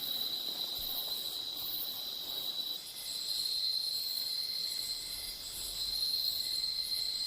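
Night insect chorus of the tropical rainforest: a steady, high, even trill of crickets, with fainter higher and lower buzzing tones joining in.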